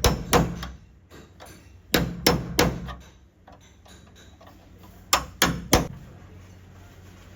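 Hammer blows on car body sheet metal during dent repair, sharp strikes coming in quick groups of two or three about a third of a second apart, with pauses between the groups.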